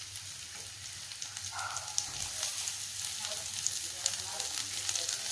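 Sliced capsicum sizzling in hot oil in a steel pan with fried onions and green chillies, the sizzle growing a little louder. A metal spatula scrapes against the pan now and then.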